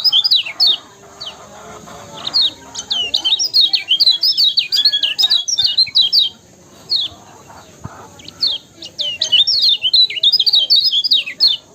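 Kecial kuning (lemon-bellied white-eye) calling in rapid runs of high, quick down-slurred chirps, broken by short pauses about two seconds in and again around six seconds.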